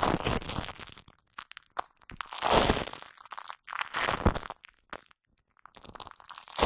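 Shaving foam squished and rubbed against a microphone close up, giving sticky, crackling bursts with short pauses between them, three in all.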